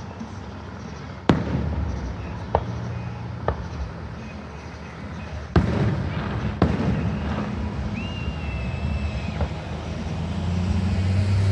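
Aerial fireworks bursting: five sharp bangs over a low rumble, the loudest about a second in and halfway through. A thin high whistle sounds briefly after the last bang.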